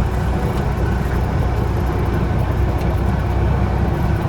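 Cabin noise of a Cessna 172M: its four-cylinder Lycoming engine and propeller making a steady, loud drone heard inside the cockpit.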